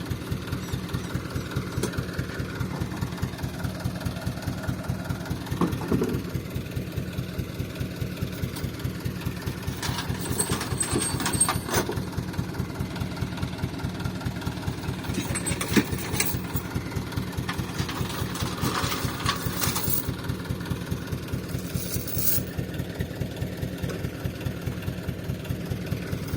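A 4x4 truck engine idling with a steady, even low pulse, with a few short clatters in the middle.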